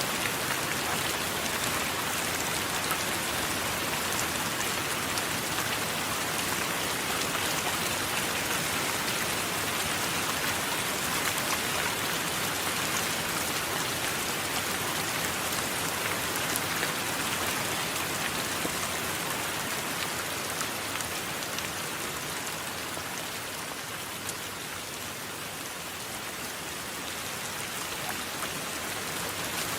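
Steady rain, a dense patter of drops. It eases a little about three-quarters of the way through, then picks back up near the end.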